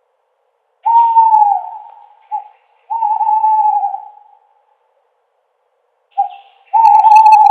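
Owl hooting: long, low hoots with a short note before or between them, in two groups with a pause of about two seconds between.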